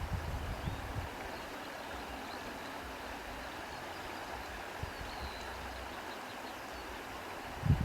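Outdoor wind blowing steadily, with low gusts buffeting the microphone in the first second and again more strongly near the end. Faint bird chirps sound now and then.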